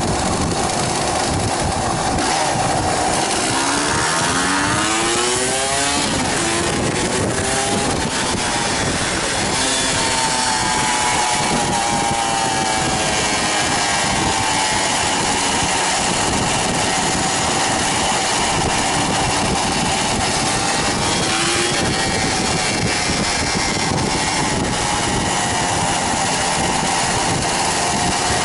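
Yamaha DT230 Lanza's two-stroke single-cylinder engine under way: it revs up twice through the gears in the first several seconds, then runs at a steady cruising pace with slow rises and falls in pitch. A steady rushing noise sits under it.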